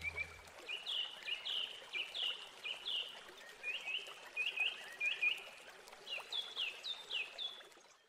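A bird singing a run of short, quick chirps that each drop in pitch, two to three a second with a brief pause a little past halfway, over a faint steady hiss of trickling water.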